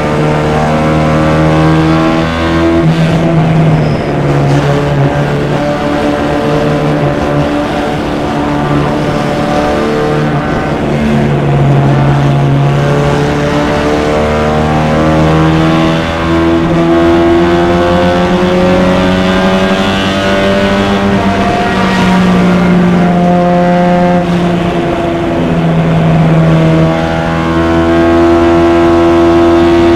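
Vintage MG race car's four-cylinder engine at full racing effort, heard from the cockpit. Its pitch climbs and falls back several times as the throttle is worked and gears are changed.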